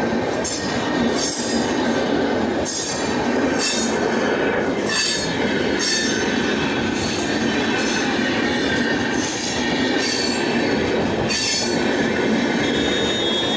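Train running on the rails: a steady loud rumble with high-pitched bursts of noise recurring roughly once a second.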